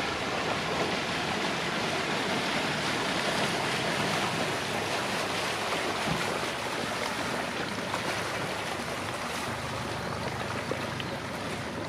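A steady rushing of river water and wind, with a boat's low hum under it as it passes.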